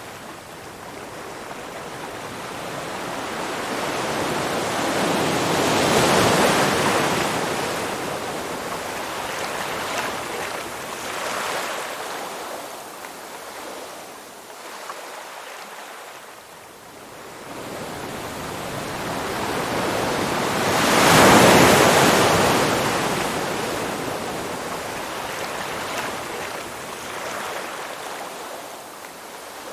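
Ocean surf: two waves swell and wash in with a rising, then fading rush, the second one, about two-thirds of the way through, the louder.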